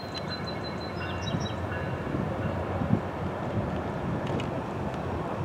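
Virginia Railway Express commuter train rolling away on the rails, a steady low rumble of wheels on track, with a few faint high chirps in the first second and a half.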